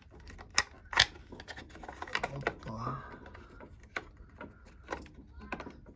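Irregular sharp clicks and knocks of an electric plug and socket being handled to power up an old fridge, the loudest about a second in.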